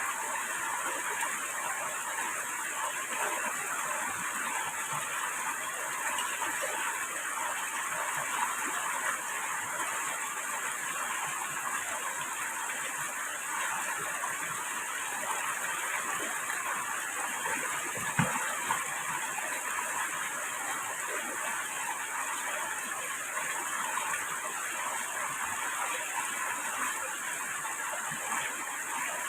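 Steady rushing of water, with one short knock about eighteen seconds in.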